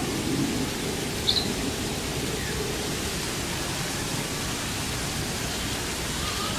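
Steady rushing hiss of falling water, with one short high bird chirp about a second in.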